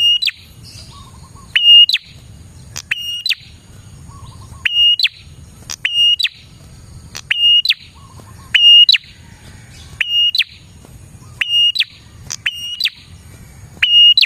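Prenjak (prinia) calling over and over, about a dozen short, loud, identical high whistled notes a little over a second apart, each a quick upward slur into a brief steady whistle. A faint low rumble lies underneath.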